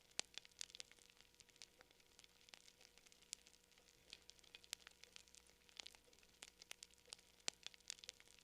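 Campfire crackling: wood burning with quick, irregular sharp pops and snaps, several a second.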